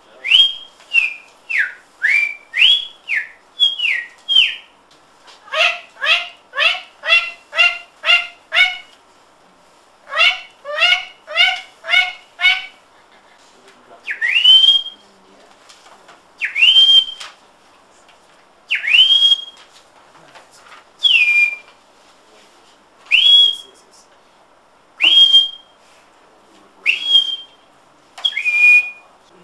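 A person whistling imitations of bird calls: a run of quick up-and-down whistled notes, then two fast runs of short repeated notes, then single slurred whistles about every two seconds.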